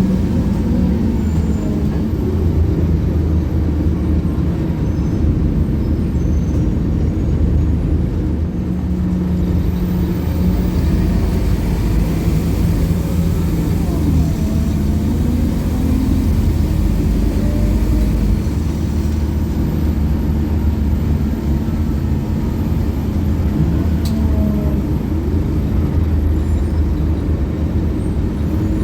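Scania K280UB bus's five-cylinder diesel engine running under way, its low drone rising and falling in pitch as the bus speeds up and slows, over road noise.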